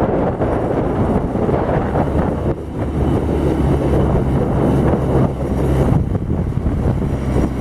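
New Holland LB75 backhoe loader's diesel engine running steadily.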